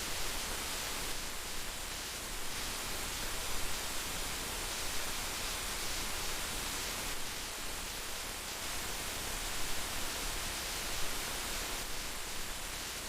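Heavy rain falling steadily, a dense, even hiss with small bumps in loudness now and then.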